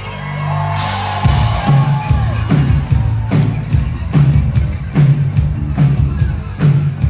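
Live synth-pop band playing: a held synthesizer note with a short crowd cheer about a second in, then the drums and bass come in with a steady driving beat of about one hit every 0.8 seconds.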